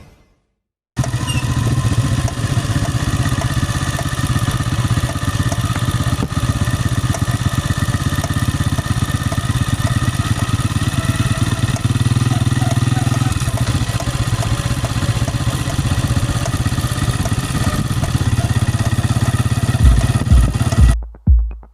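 Honda CG125 single-cylinder motorcycle running steadily, with a light ticking from the chain and sprocket, the 'tuk tuk' of a chain-sprocket problem. Near the end it gives way to a thudding electronic drum beat.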